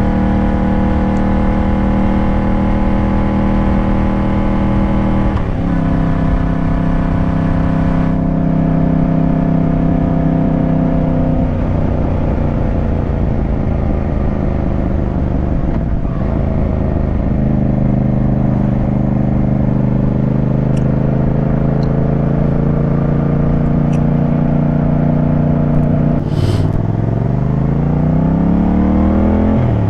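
Yamaha MT-07's parallel-twin engine under way at a steady road speed, heard with wind rush on the rider's microphone. Its pitch steps down a few times, then drops and climbs steeply about three seconds before the end as the bike slows and accelerates again, rising once more right at the end.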